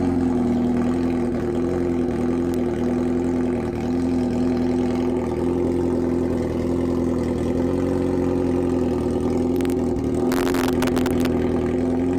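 Motorcycle engine idling steadily after being started, with a brief burst of rustling noise about ten seconds in.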